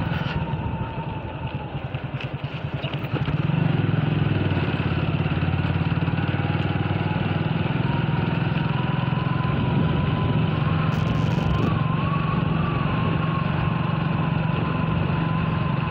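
Motorcycle engine running while riding: it eases off for a couple of seconds near the start, then picks up again and runs steadily, with a thin steady whine above it.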